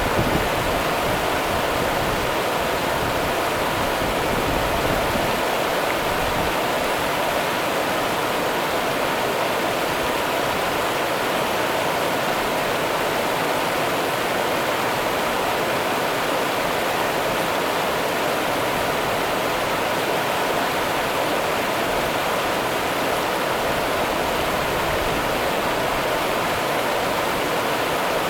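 Rio Grande river water rushing steadily, an even rushing noise with no breaks.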